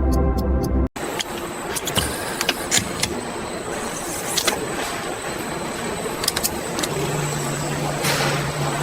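Steady mechanical machinery noise with scattered sharp metallic clicks and clinks, and a low hum coming in near the end. It opens with a second of ticking music that cuts off abruptly.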